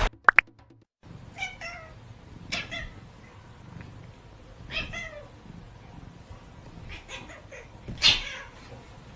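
A cat meowing repeatedly: several short meows a second or two apart, the loudest one near the end.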